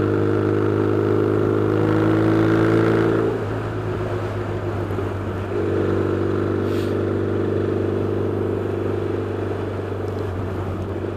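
Yamaha XS650 parallel-twin engine running as the motorcycle is ridden, exhaust through pipes that are a bit on the loud side. It pulls with the pitch rising slightly, eases off at about three and a half seconds, and is back on the throttle about two seconds later.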